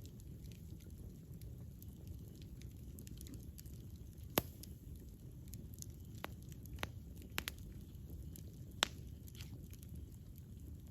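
Campfire burning with a steady low rumble and scattered crackles and pops of the wood, the sharpest about four and a half seconds in and again near nine seconds.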